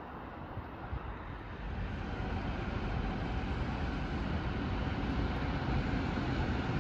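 Freight train of open wagons hauled by two electric locomotives rolling past at a distance: a steady rumble of wheels on the rails that grows a little louder about two seconds in.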